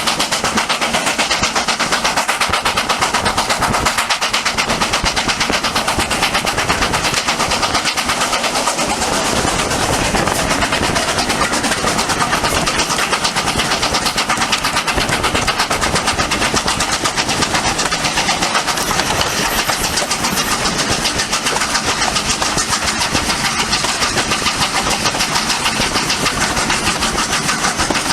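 Steam tank locomotive running, with a loud, steady, rapid beat of exhaust.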